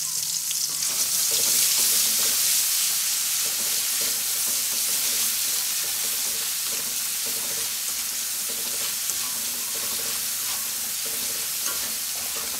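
Ground chilli spice paste and lemongrass sizzling in hot oil in a wok as they are stirred with a spatula, the paste being sautéed until cooked. A steady frying hiss, a little louder in the first few seconds.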